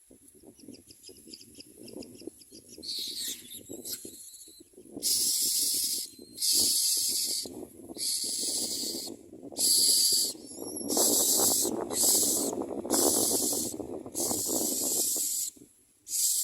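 Common myna nestlings begging with harsh, hissing rasps, repeated about once a second from about five seconds in.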